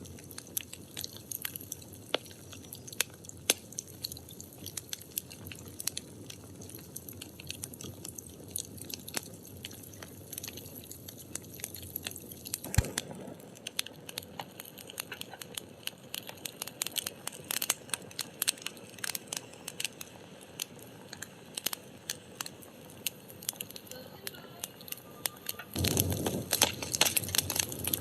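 Burning firewood crackling and popping in irregular sharp snaps over a low steady rush of flame, with one louder pop about halfway through. Near the end the fire's rush grows louder and fuller.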